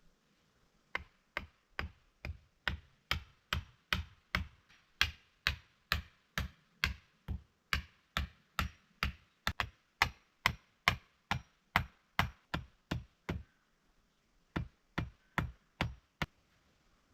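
A hand tool striking over and over in a steady rhythm, about two and a half sharp knocks a second, each with a dull thud beneath it. The strikes stop briefly near the end, then a few more follow.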